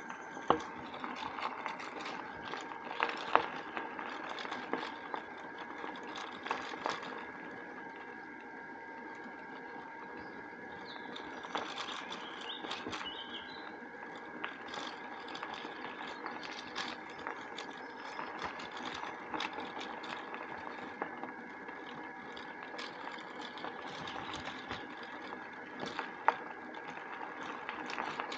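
Bicycle riding along a woodland path: steady tyre and drivetrain noise with a faint continuous whine, broken by frequent clicks and rattles as the bike goes over bumps.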